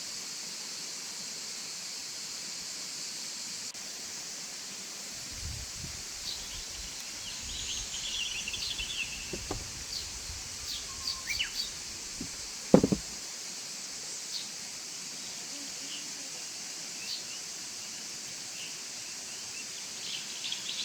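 Small birds chirping now and then over a steady high hiss of outdoor ambience. A single sharp knock comes about thirteen seconds in.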